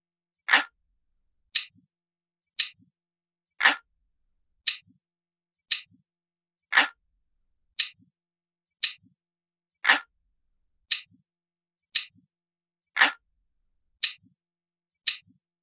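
Glass-like clock ticking sound effect: a crisp, high tick about once a second, with every third tick louder and fuller.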